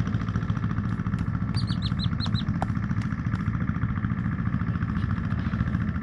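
BMW R1200GS boxer-twin motorcycle engine idling with a steady, even beat. About two seconds in, a bird chirps five quick times.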